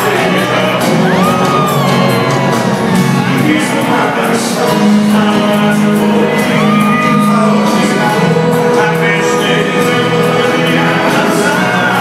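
Live sertanejo concert music: a band with singing, over which the audience shouts and whoops, with a few gliding high calls.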